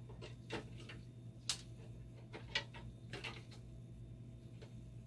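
Scattered light clicks and taps of small parts being handled, the two sharpest about a second and a half and two and a half seconds in, over a steady low hum.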